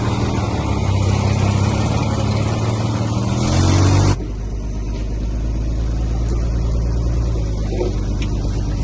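Heavy diesel engine running, its pitch climbing as it revs up; about four seconds in it cuts off suddenly and gives way to a lower, steady engine drone.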